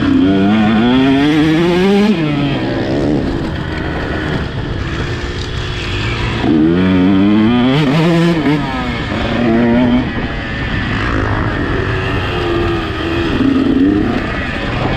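Motocross bike engine revving hard under acceleration, its pitch climbing and then dropping sharply as the throttle shuts off, about two seconds in and again around eight and ten seconds in, before it builds once more.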